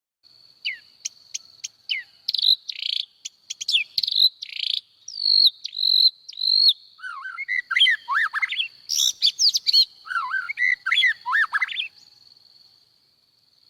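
Birds chirping and singing in quick, varied whistles, short chirps and gliding notes over a steady high-pitched insect drone. The calls are high and clipped at first and become busier and lower-pitched in the second half.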